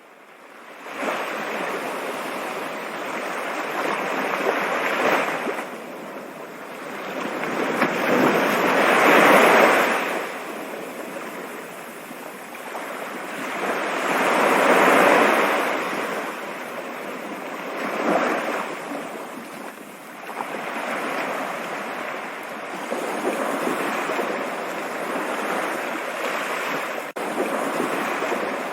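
Rushing water: a dense, even hiss that swells louder and falls back in several slow surges, the strongest about a third and halfway through. It starts faint and comes up about a second in.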